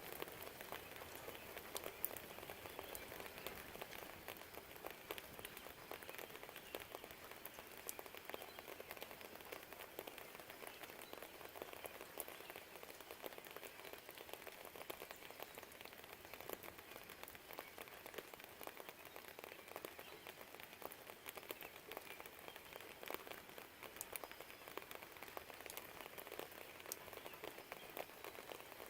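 Rain falling steadily and faintly, a soft even patter with many separate drops ticking through it.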